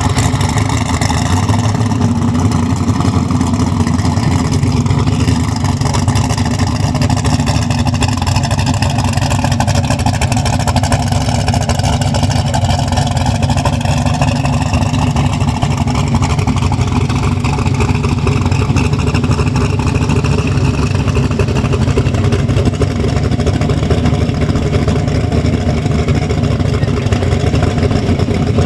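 Turbocharged truck engine running with a steady, even drone, with no clear revving up or down.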